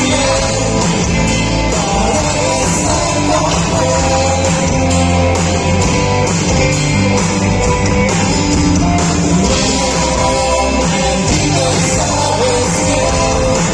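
A band playing rock music live, with singing over guitar and drums.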